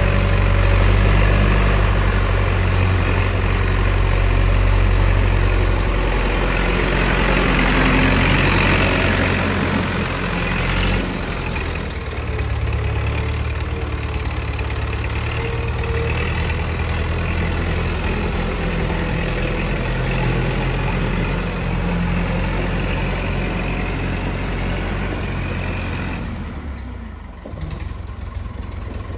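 Massey Ferguson 165 tractor engine running steadily, with a brief dip in its sound a little after ten seconds in and another shortly before the end.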